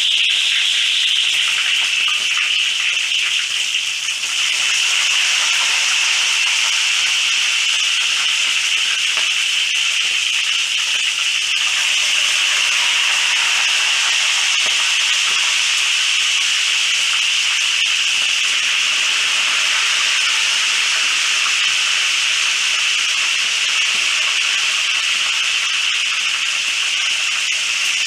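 Pieces of spiced waterhen deep-frying in hot oil, a steady, loud sizzle.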